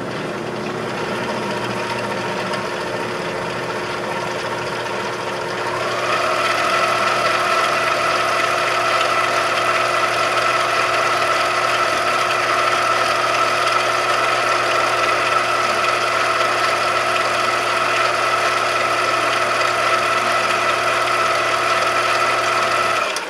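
Machine tool's electric motor running steadily with a whine, stepping up to a higher speed about six seconds in and then holding steady. It shuts off abruptly near the end.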